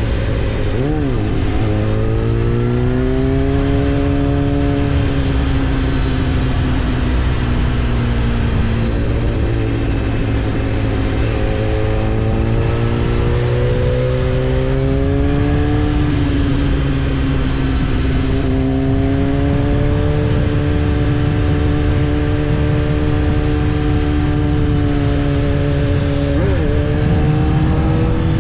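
Kawasaki ZX-10R's inline-four engine heard from the rider's seat, its pitch slowly rising and falling as the bike is ridden at moderate revs. There are two quick dips and recoveries in engine note, about a second in and near the end, over a heavy low rumble.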